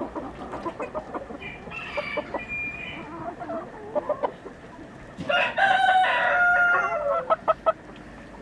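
Free-range chickens clucking, then a rooster crows once about five seconds in, a long call lasting about two seconds and the loudest sound here, followed by a few short sharp clucks.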